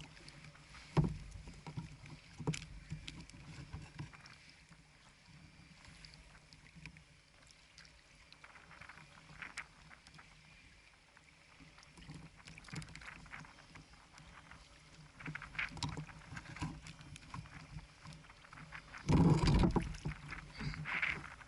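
Water splashing and lapping against a fishing kayak, with scattered knocks on the hull and one louder splash or thump near the end.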